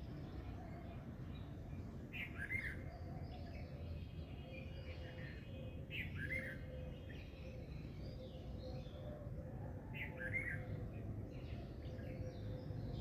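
Birds chirping and singing, with one short call phrase repeating about every four seconds, over a steady low background rumble.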